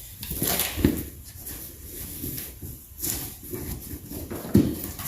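Scattered knocks and clunks of tools being handled, with a louder thump about four and a half seconds in; no impact wrench is running.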